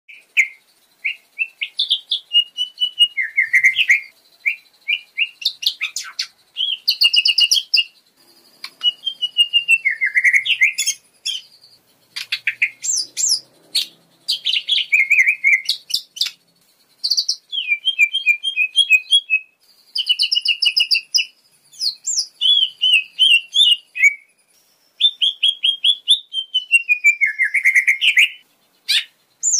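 Lesser green leafbird (cucak ijo mini) singing in full voice: a varied, rapid string of clear whistled phrases, quick repeated notes and trills, delivered in bursts of a second or two with short pauses between them. The song is rich in mimicked phrases, the kind kept as a lure recording to set other cage birds singing.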